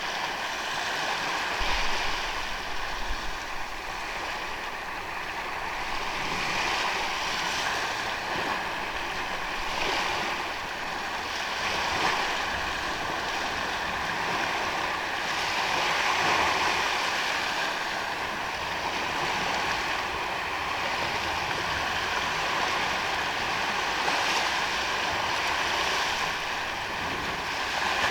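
Ocean waves washing in on the shore, the surf swelling and easing every few seconds, with a brief low rumble about two seconds in.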